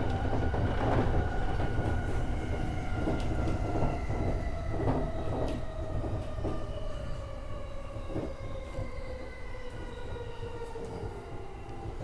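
E231 series electric train running on the rails, its traction motor whine slowly falling in pitch as the train slows, with irregular clicks of the wheels over rail joints. The falling pitch and fading level are typical of the train braking on its approach to a station stop.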